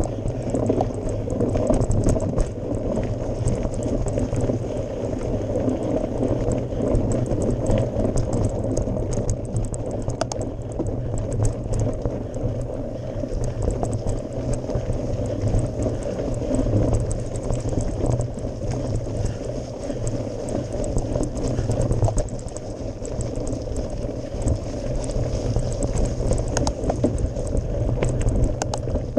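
Mountain bike climbing a gravel forest road: tyres crunching and crackling over loose gravel on top of a steady low rumble.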